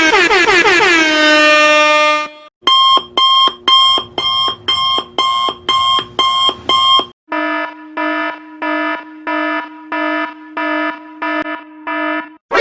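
Electronic sound effects in a row: a tone that slides down in pitch and settles, then a run of about ten quick high-pitched alarm beeps, about two a second, then a run of lower-pitched buzzer-like beeps at about the same rate.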